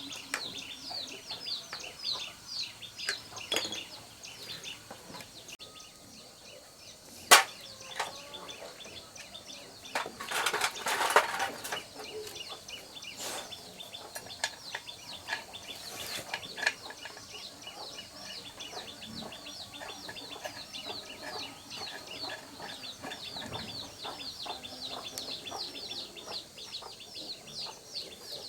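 Birds chirping rapidly and repeatedly in high short notes throughout. A single sharp click comes about seven seconds in, and a short burst of clattering noise about ten seconds in.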